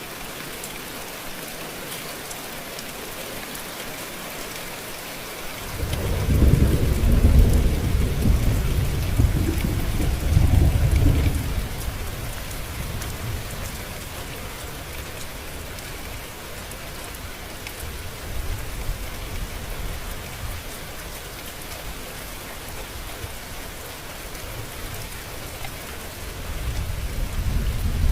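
Steady rain falling, with a long low rumble of thunder starting about six seconds in and dying away over several seconds, and another rumble building near the end.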